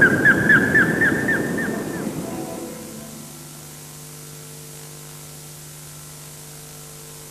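A bird gives a quick run of about eight short, falling, whistled chirps over a low rumbling noise; both fade out within about three seconds, leaving a faint steady hum.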